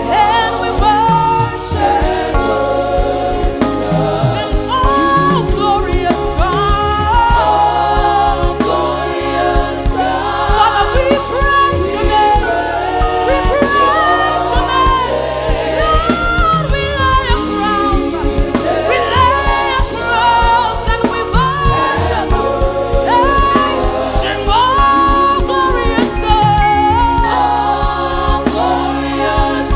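Live gospel worship music: voices singing a slow, sustained melody over band accompaniment with low sustained notes and percussion hits.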